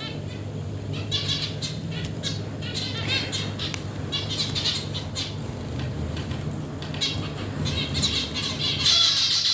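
Several birds calling in repeated bursts of rapid chattering trills, loudest near the end, over a steady low hum.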